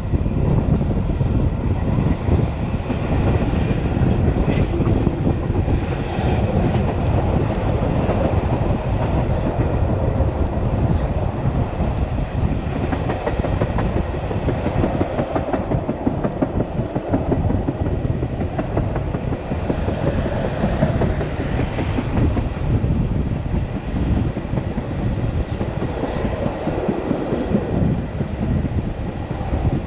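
Metre-gauge Matterhorn Gotthard Bahn passenger train running steadily, a continuous rumble of wheels on the rails heard from on board.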